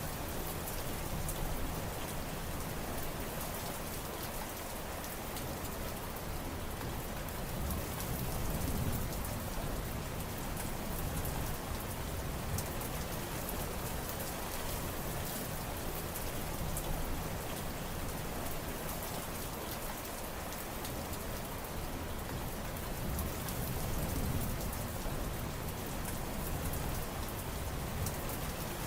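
Steady rain falling on surfaces, an even hiss with fine patter of drops and a deeper low rumble that swells gently now and then.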